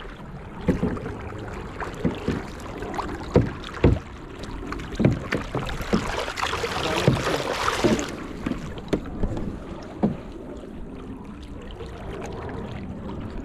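Canoe being paddled: paddle strokes splashing, with scattered knocks against the hull and a spell of louder splashing in the middle.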